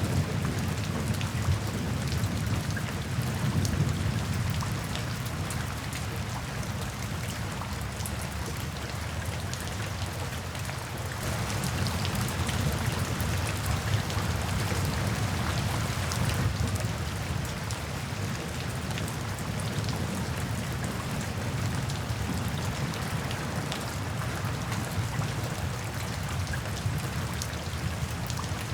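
Steady rain with individual drops pattering on a surface, over a soft low rumble of distant rolling thunder that swells again about a third of the way in.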